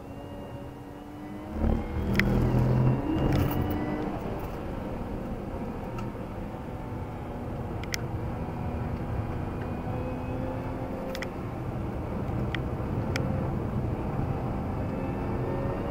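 Jaguar XE S's supercharged 3.0-litre V6 heard from inside the cabin while lapping a circuit, its note getting louder about two seconds in and then pulling steadily with the pitch drifting up and down. A few sharp clicks sound through it.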